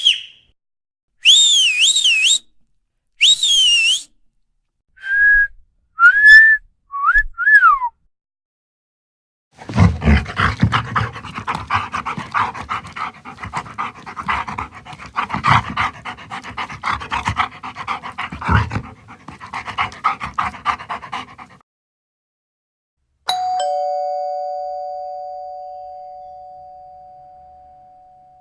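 A run of high, wavering squeaks and whines, then a long stretch of dense crackling, rattling noise. Near the end, a two-note doorbell ding-dong rings out and fades slowly.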